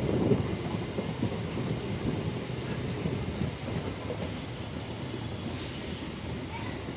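Passenger train running, heard from aboard: a steady rumble of wheels on the rails, with a high-pitched wheel squeal for about two seconds past the middle.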